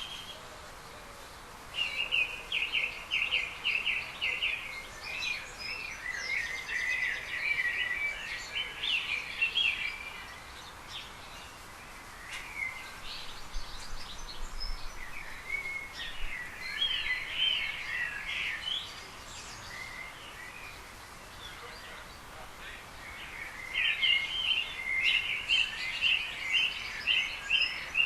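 Small birds singing and chirping in chattering bursts of several seconds, with quieter gaps between bouts, over a steady outdoor background hiss.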